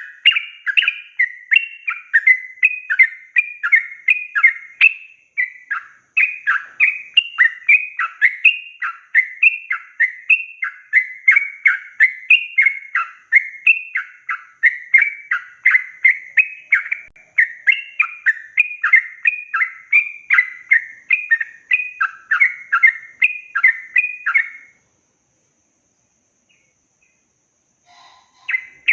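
Sooty-headed bulbul singing a long, rapid run of short chirping phrases, about two a second. The song stops about 25 seconds in, and a faint brief note follows near the end.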